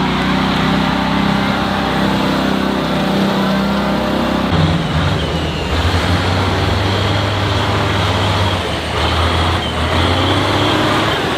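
Tractor engine running steadily; about four and a half seconds in, its note drops lower and stays there.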